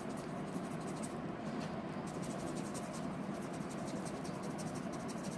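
Paintbrush stroking paint quickly across the painting surface: a steady, soft, scratchy rustle of brush strokes.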